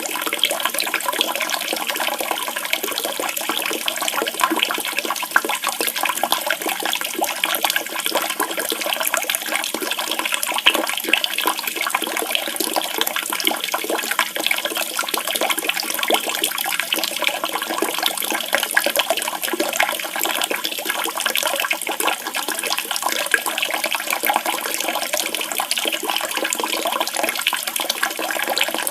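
Running water splashing steadily and continuously, a water-therapy sound with no birdsong over it.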